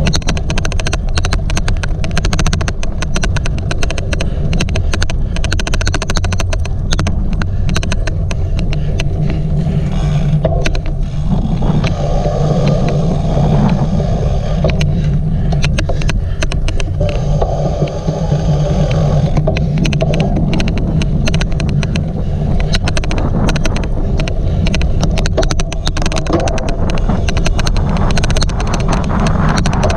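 Steady rumble and rush of a bicycle racing over a cyclocross course, heard from the rider's own camera. Frequent irregular sharp clicks run through it, the odd clicking noise on this recording.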